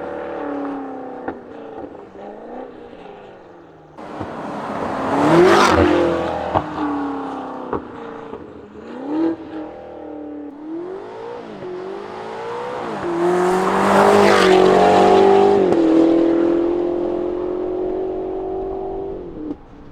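BMW S68 twin-turbo V8 of an X5M Competition with free-flow downpipes and a valved full exhaust, heard from outside as the SUV accelerates and passes. Its pitch rises and falls several times, and the loudest moments come about five seconds in and again around fourteen seconds in.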